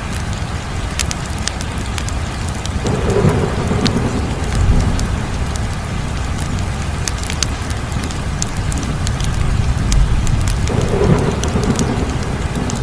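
Crackling wood fire: a steady low rumble of flames with scattered sharp pops and snaps, swelling twice, about three seconds in and again near the end.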